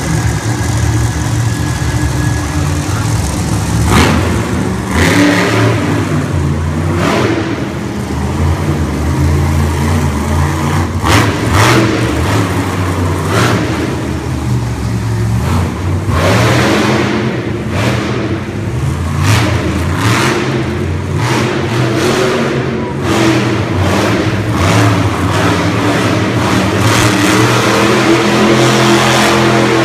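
Monster truck engine revving hard and easing off again and again, its pitch rising and falling throughout. Several short, loud bursts of noise cut across it, thickest in the middle.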